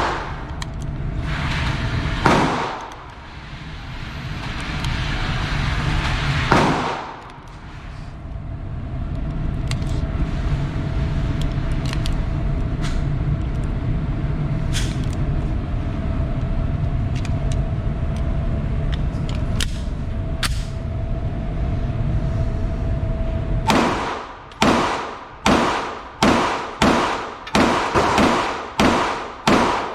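Gunshots on a shooting range, each with an echoing tail. There are three spaced shots in the first seven seconds, then a long stretch of steady low rumble with a faint hum, and near the end a rapid string of about ten shots, roughly two a second.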